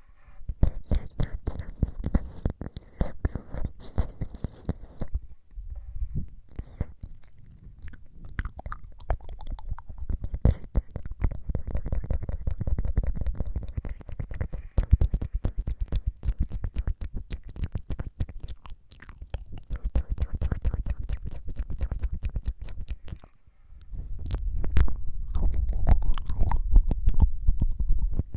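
ASMR mouth sounds: rapid wet tongue fluttering and clicking close to the microphone, in runs of several seconds with brief pauses about 5, 14 and 23 seconds in.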